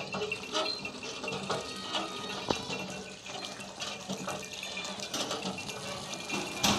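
Water splashing and trickling, with small irregular clicks and knocks.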